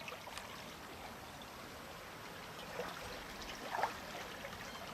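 A creek running steadily, a low, even water sound, with a couple of faint short clicks about three and four seconds in.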